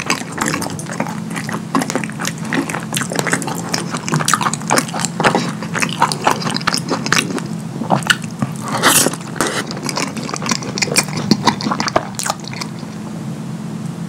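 Close-miked wet chewing and lip smacking of a mouthful of sauce-covered chili cheese fries: a dense run of moist clicks and squelches that thins out and grows quieter near the end.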